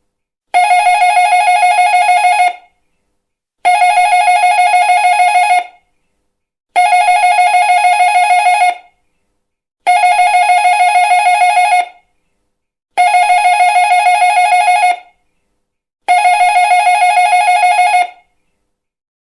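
Doorbell ringing in a fast pulsing trill, six rings of about two seconds each, one every three seconds or so.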